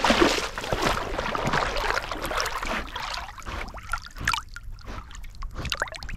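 Water splashing and sloshing close up as a Labrador retriever wades and swims, with irregular small splashes.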